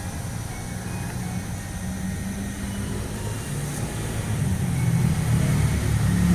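Car engine running with a steady low hum that grows louder through the second half.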